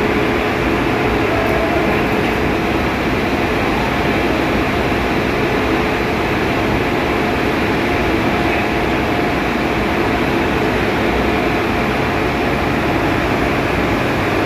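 Steady, loud machinery noise of a ship's engine room, with a faint hum of a few steady tones running under it.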